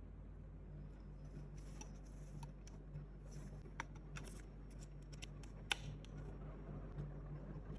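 Unboxing handling: light rustling of packaging with a scatter of sharp clicks and snaps of small plastic parts, the sharpest about two thirds of the way through, over a steady low hum.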